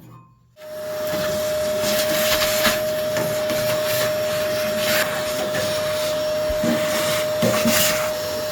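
Vacuum cleaner switched on about half a second in, then running steadily with a constant whine, with a few brief knocks over it.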